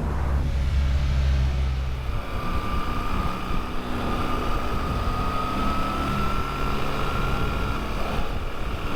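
Motorcycle on the move, with engine and wind noise. A heavy low rumble fades about two seconds in, and then a thin whine rises slowly in pitch until near the end.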